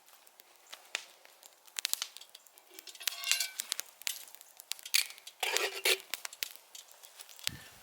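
Wood campfire crackling with sharp pops, with two spells of metal scraping and clinking of cookware, about three seconds in and again around five and a half seconds.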